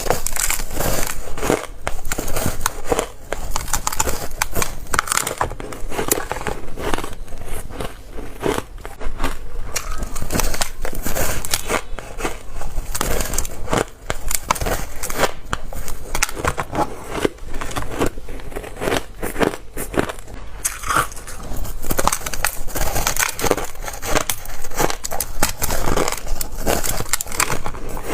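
Close-miked biting and chewing of shaved ice and hard ice cubes: dense, irregular crunching and crackling of ice breaking between the teeth.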